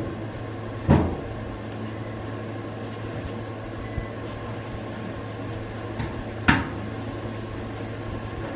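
Steady low hum, with two short knocks: one about a second in and one past the middle.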